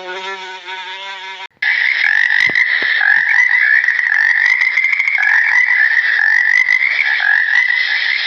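A dense chorus of frogs calling in a continuous trill, which starts abruptly after a short buzzing tone about a second and a half in.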